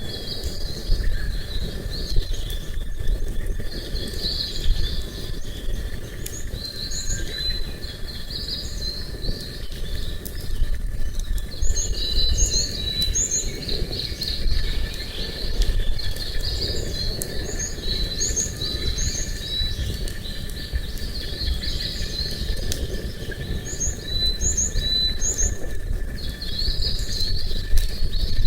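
Small songbirds singing: ongoing chirping and warbling, with a call of three short high notes repeated several times, over a steady low rumble.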